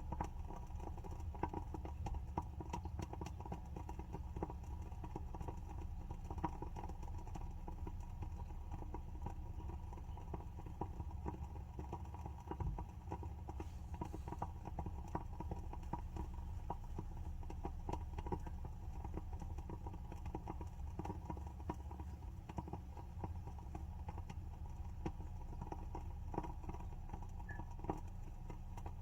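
Wooden wick of a WoodWick candle crackling as it burns: a steady run of small, irregular ticks and pops, like a tiny wood fire.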